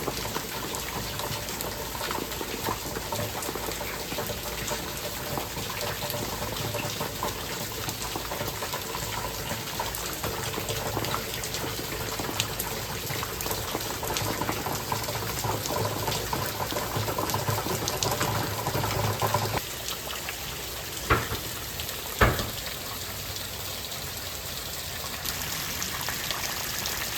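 Rain falling steadily as an even wash of noise. The sound shifts abruptly about two-thirds of the way through, and two sharp knocks follow a second or so apart.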